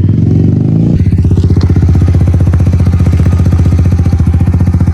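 Dirt bike engine running, shifted into third gear; about a second in its note drops to a low, evenly pulsing beat that holds steady.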